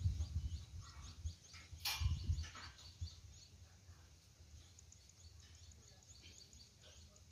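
Faint bird chirping, many small high calls. There is low rumble at the start and again about two seconds in, and a single sharp click about two seconds in.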